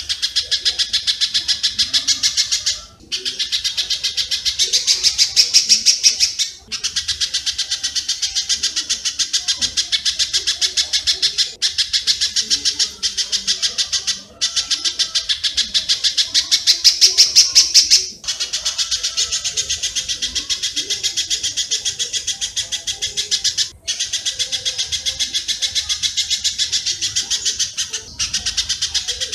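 Recorded spiderhunter and swiftlet calls played as a bird-training track: fast runs of high, evenly repeated chirps lasting a few seconds each, broken by short pauses.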